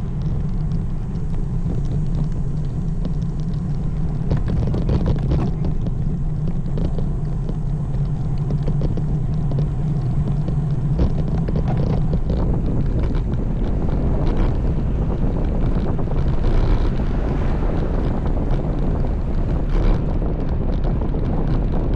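Steady wind rush and buffeting on the microphone of a road bike riding along at speed, with a low rumble underneath.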